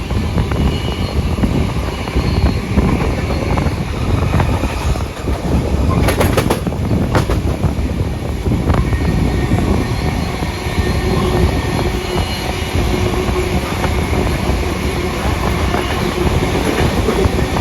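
Steam-hauled passenger train running along the track, a steady rumble with a short run of sharp clicks about six to seven seconds in.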